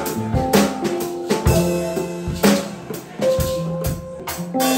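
Live band music: a drum kit keeping a steady beat with bass drum and snare hits, under held notes from other instruments.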